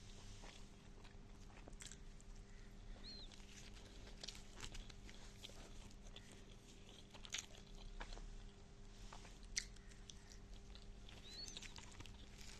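A person chewing and eating potato egg bhujia, faint wet mouth sounds with irregular small smacks and clicks. A steady low hum runs underneath.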